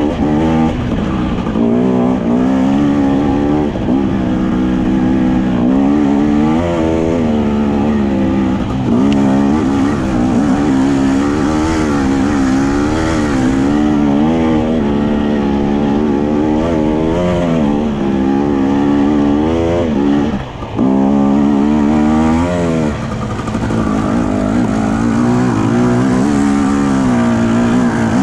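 Enduro dirt bike engine running under constant throttle changes, the revs rising and falling every second or so as it is ridden over rough ground, with a brief drop when the throttle is shut about two-thirds of the way through.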